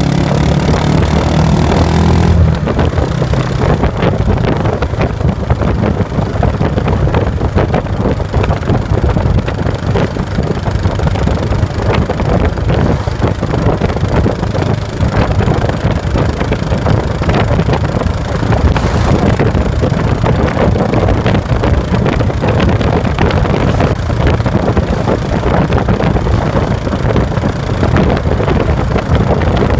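Yamaha SR400 FI single-cylinder motorcycle with a Planas aftermarket muffler, ridden along with wind buffeting the microphone. A steady engine note in the first couple of seconds gives way to rougher, noisier riding sound.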